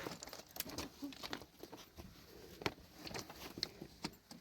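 Faint, irregular small clicks and knocks, the sharpest one about two and a half seconds in.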